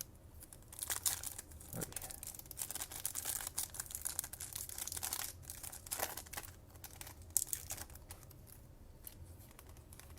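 Foil trading-card pack wrapper being torn open and crinkled: a dense crackling rustle for several seconds, with a few sharper crinkles before it dies down near the end.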